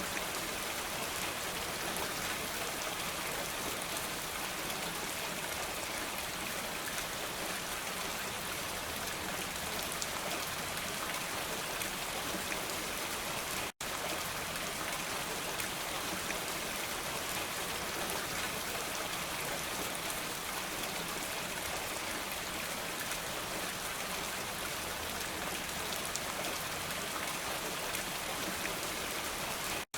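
Steady, even rain falling, with no thunder. Just before halfway the sound cuts out for a split second and comes straight back.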